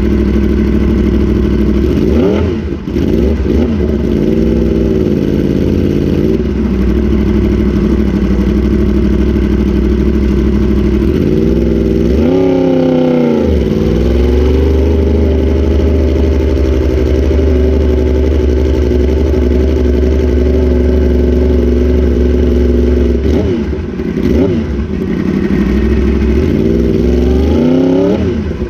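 Motorcycle engine running hard at high revs around a racetrack. Its pitch drops and climbs back several times as the bike brakes and shifts for corners.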